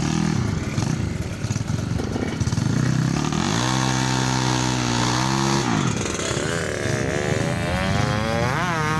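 Tuned motorcycle engine being revved. About three and a half seconds in it holds a steady pitch for about two seconds, then from about six seconds it is blipped, rising and falling in pitch again and again.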